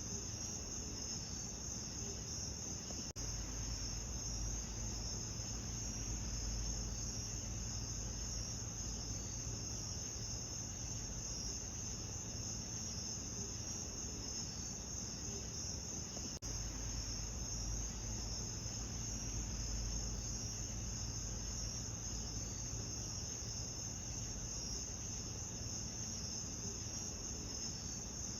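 Steady, continuous high-pitched insect chorus, like crickets, over a low even rumble. It drops out briefly twice, about 3 and 16 seconds in.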